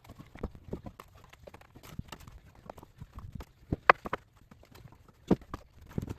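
Split walnut firewood knocking and clattering as pieces are handled and stacked: irregular hollow wooden clunks, the loudest about four seconds in and again about a second and a half later.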